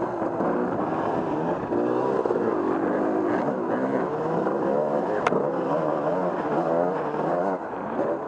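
Off-road vehicle engine revving up and down as it rides a trail, its pitch rising and falling continually. A single sharp click about five seconds in.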